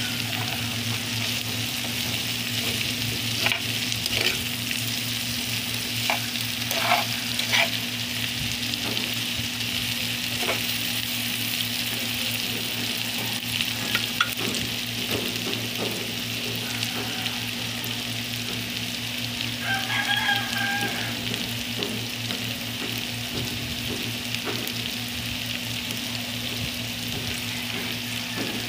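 Sliced bitter gourd sizzling steadily as it stir-fries in a nonstick pan, with scattered taps and scrapes of a spatula against the pan, mostly in the first half. A steady low hum runs underneath.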